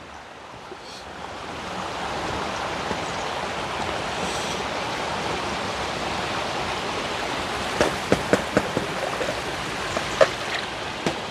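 Stream water rushing steadily, growing louder over the first couple of seconds, with a few sharp knocks about eight to eleven seconds in.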